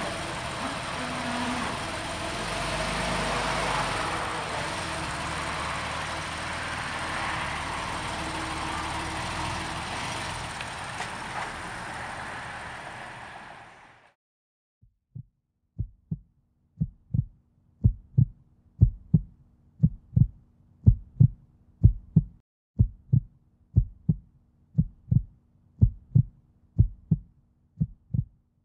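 The 2012 Porsche 911 Carrera's 3.6-litre flat-six engine running steadily, fading out about halfway through. After that comes a thumping beat, about two a second, over a low steady tone.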